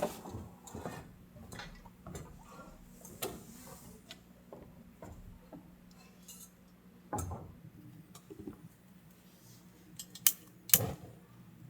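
Scattered small clicks and knocks of objects being handled, with two sharp knocks near the end, over a faint steady hum.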